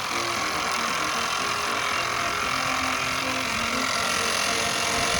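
Mamod miniature live-steam engine running just after being restarted, with a steady hiss of escaping steam.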